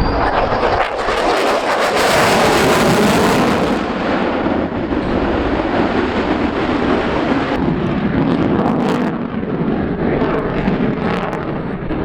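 Loud jet noise from an F-22 Raptor's twin Pratt & Whitney F119 turbofan engines as the jet passes. The noise peaks about two to four seconds in, then settles into a steady, slightly lower noise.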